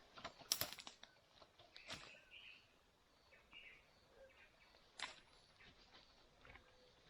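Quiet scene with faint scattered snaps and knocks, the sharpest about half a second in, another near 2 s and one about 5 s in, and a few short bird chirps in between.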